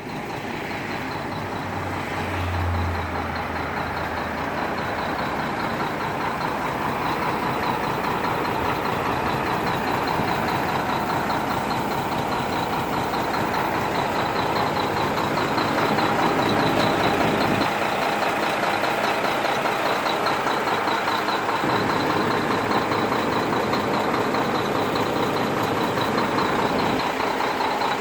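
Mack CH truck's diesel engine running steadily, a continuous mechanical drone.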